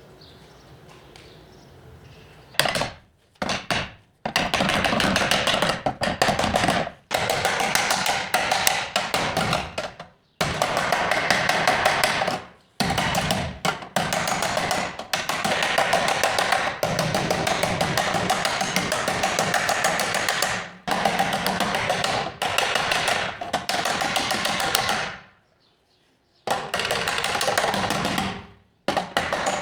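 Rapid, repeated hammer strikes on car body sheet metal, in long runs that stop and start abruptly with short pauses.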